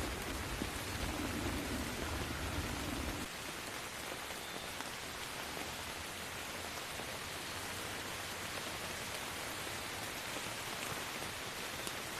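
Steady rain, with a low rumble of thunder in the first three seconds that stops suddenly, leaving the rain alone.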